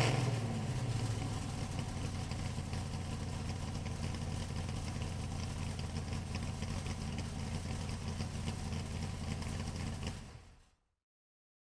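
A vehicle engine idling steadily with a low, even hum, settling after being revved, then fading out to silence about ten and a half seconds in.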